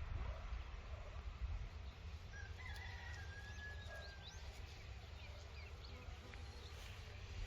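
Rural outdoor ambience: a steady low rumble with a few short bird chirps and one longer whistled bird call near the middle.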